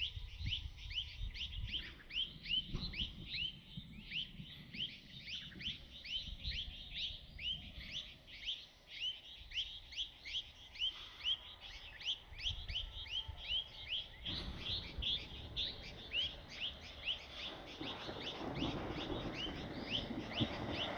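A bird calling over and over in a steady series of short chirps, about three to four a second, with a low rumble underneath that grows in the second half.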